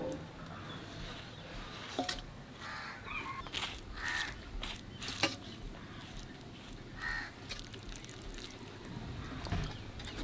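A bird calling outdoors, several short calls spaced a few seconds apart, with a few faint clicks in between.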